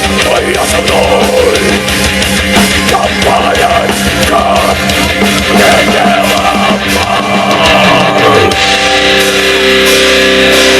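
Metal band playing an instrumental passage, with distorted guitars, drums and a wavering lead melody. About eight seconds in, it settles into long held chords.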